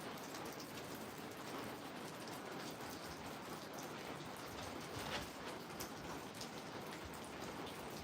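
Steady rain falling, a dense even hiss with many individual drops ticking close by. One louder drop or impact stands out about five seconds in.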